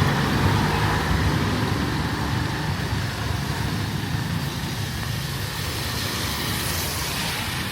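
Street traffic: a motor vehicle's engine running close by, a steady low hum over general road noise, gradually getting quieter.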